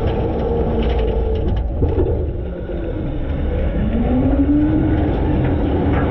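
Front-load garbage truck running, heard from inside its hopper: a steady low rumble with clanks and rattles of loose metal. About two seconds in, a whine rises in pitch and then holds steady.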